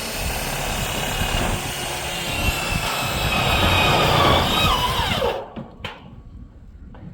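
A power tool motor running steadily, then winding down with a falling pitch about five seconds in as it is switched off. A couple of short knocks follow.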